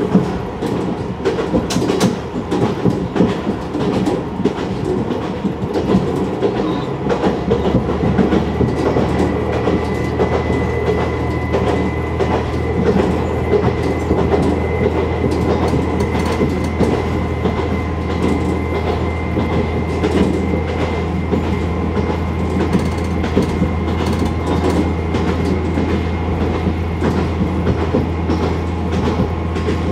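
Diesel railcar running along single track, heard from inside the cab: steady running noise with wheels clicking over the rail joints. About seven seconds in, a steady low engine hum sets in and holds.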